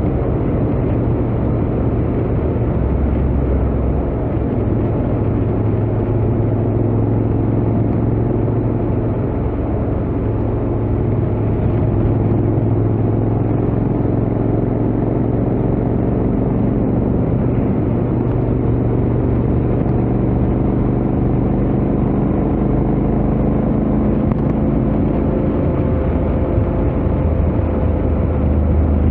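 Honda X-ADV 750's parallel-twin engine running through its stock exhaust at a steady cruising speed on the highway, under a constant rush of wind and road noise.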